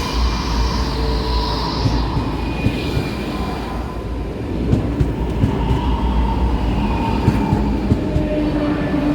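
A rail vehicle running on the track: a steady rumble with several held high tones over it and scattered short clicks from the wheels.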